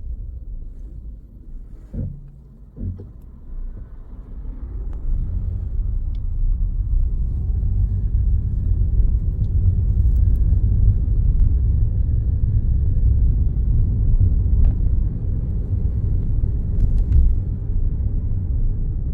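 Car's engine and road rumble heard from inside the cabin while driving, growing louder about four to five seconds in and then holding steady. Two short knocks come near the start.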